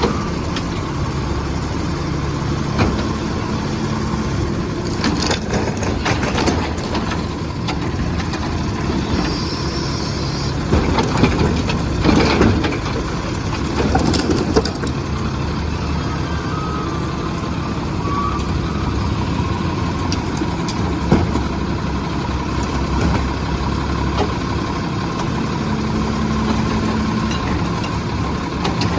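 Peterbilt garbage truck with a Heil Rapid Rail side-loader body running steadily, its engine humming, with several sharp knocks scattered through the middle.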